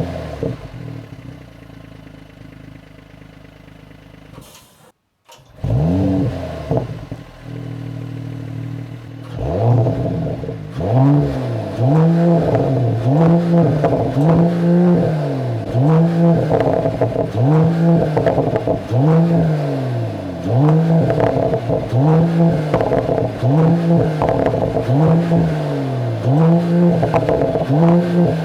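Mercedes-AMG GT 4-Door Coupé engine and exhaust: a rev flare that settles to idle, then from about ten seconds in a long series of stationary throttle blips, the pitch rising and falling again roughly every second and a half, with sharp crackles as each rev drops.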